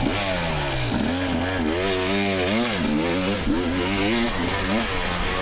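Two-stroke 300 cc GasGas EX300 dirt bike engine revving up and down again and again as the throttle is worked, its pitch rising and falling roughly every half second to second.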